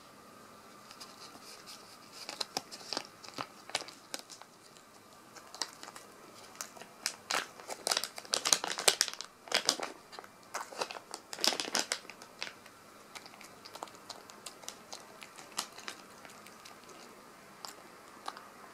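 Plastic treat packet crinkling and being torn open, a run of sharp crackles that grows dense and loud through the middle and thins out near the end.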